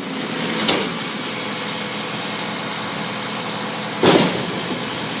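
Garbage truck engine idling steadily, with two short, loud noises cutting across it, about a second in and about four seconds in.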